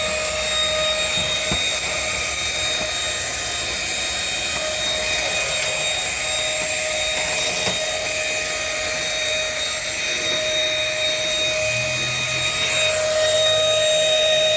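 Dirt Devil Simpli-Stick stick vacuum running steadily: a high-pitched motor whine held at an even pitch over the rush of air.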